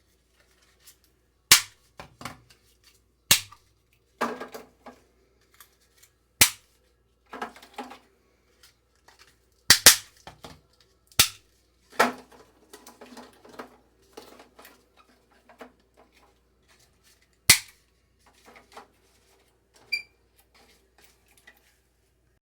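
Hard acrylic food containers and their lids being handled and set down: about a dozen sharp clacks and knocks at irregular intervals, with softer rattling and rustling between them.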